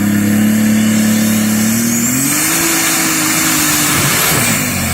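Pulling vehicle's engine running hard under load, holding a steady pitch, then rising about two seconds in and breaking off about four seconds in.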